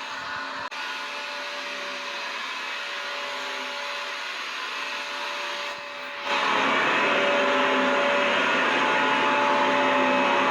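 Vacuum cleaner motor running steadily: a dense rushing noise with a held motor whine in it. About six seconds in it steps up noticeably louder and fuller.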